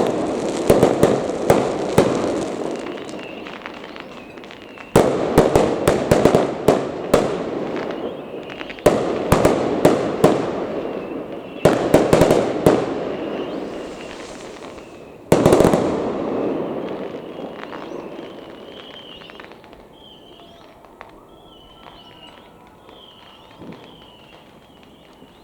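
Aerial fireworks going off in five volleys of sharp bangs, each volley trailing into crackling that fades. After the last volley the display dies away, and repeated high chirps come through near the end.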